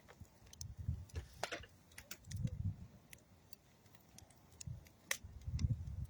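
Campfire of old railroad wood and dead tree wood crackling: irregular sharp pops and snaps over soft low rumbling puffs that grow stronger near the end.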